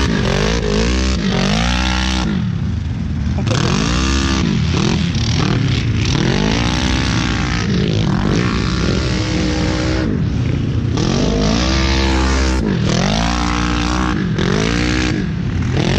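Off-road vehicle engine revving up and down again and again, its pitch climbing and dropping every second or two.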